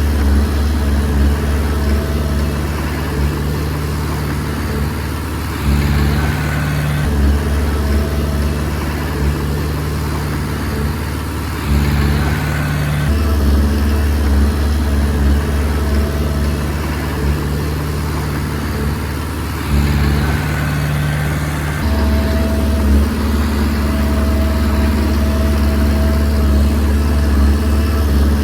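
Komatsu D20P bulldozer's diesel engine running steadily, its note stepping louder and easing off several times as it works pushing soil.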